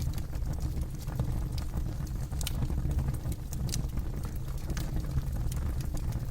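Campfire burning, with irregular sharp crackles and pops of the wood over a steady low rumble.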